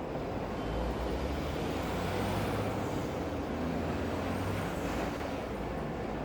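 Low rumble of a large vehicle passing through a steady city ambience hiss, swelling about a second in and fading near five seconds, with a faint high whine that rises and falls twice.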